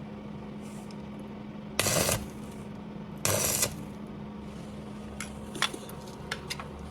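Small metal parts clinking and tapping over a steady electric hum, with two short loud rushes of noise about two and three and a half seconds in, then a run of sharp metallic clicks near the end.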